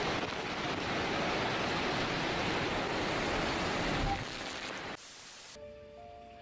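Hurricane-force storm wind blowing hard with a steady, loud rush of noise. It cuts off about five seconds in, leaving a quieter stretch with a few faint steady tones.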